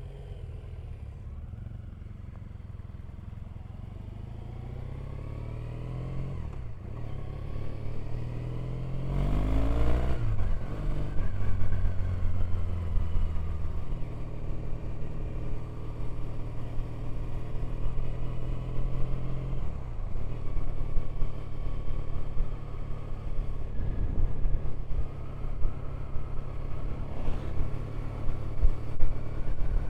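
Triumph Bonneville's parallel-twin engine under way, quiet at first, then accelerating from about six seconds in with its pitch climbing and dropping at each gear change before settling into a steady cruise. It eases off and picks up again about two-thirds of the way through.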